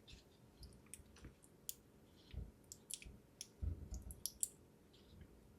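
Faint, irregular small clicks and crinkles of fingers handling a thin phase-change thermal pad sheet and pressing it onto a CPU, most frequent a little past halfway.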